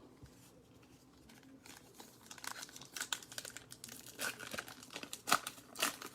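Plastic wrapper of a baseball card pack crinkling and tearing as it is opened. Quiet at first, the crackling starts about two seconds in and grows busier, with a few louder sharp crackles toward the end.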